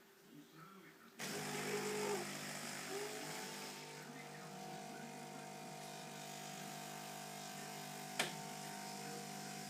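Bosch VeroCafe bean-to-cup coffee machine's pump humming steadily as it brews and dispenses coffee into the cup, starting about a second in. A single click comes near the end.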